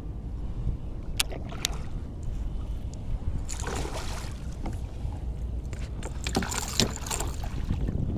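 Steady wind rumble on the microphone, with two sharp clicks about a second in and two bursts of splashing water as a walleye thrashes at the surface while being netted beside the kayak.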